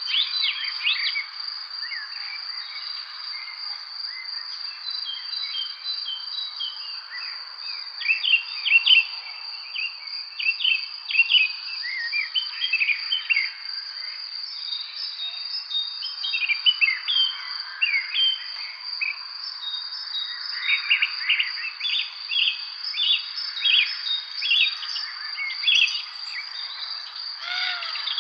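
Evening spring birdsong: many birds chirping and trilling in short, overlapping phrases. Underneath runs a steady high-pitched insect trill.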